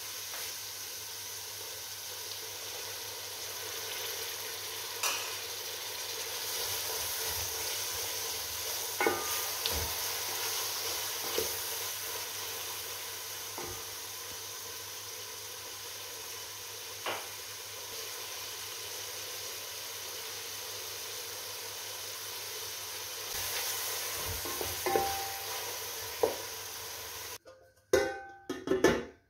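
Onions, tomatoes and green chillies sizzling steadily in oil in an aluminium pot, with scattered knocks of a wooden spoon against the pot as it is stirred. Near the end the sizzling stops abruptly and a few loud clanks follow as an aluminium lid is handled over the pot.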